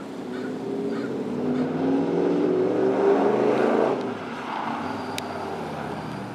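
A 1967 Ford Mustang's V8 engine running. It grows louder over the first few seconds, then drops off sharply about four seconds in.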